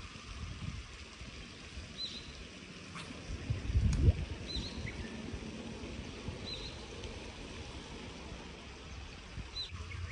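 A bird repeating a short, high chirp every couple of seconds, over a low, uneven rumble of outdoor noise that swells to its loudest about four seconds in.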